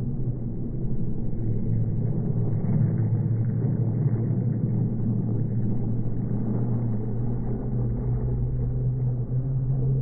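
BMW M3 sedan drifting under power with its rear tyres spinning and smoking; the engine note holds steady with little change in pitch, a little louder from about a second in.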